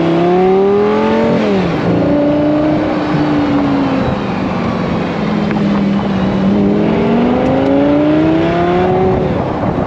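Lamborghini Gallardo V10 pulling at light throttle through the gears. The pitch climbs, drops sharply at a gear change about a second and a half in, settles, then climbs again over the last few seconds.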